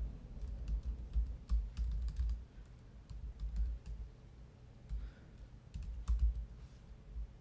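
Typing on a computer keyboard: irregular keystroke clicks, each with a dull low knock.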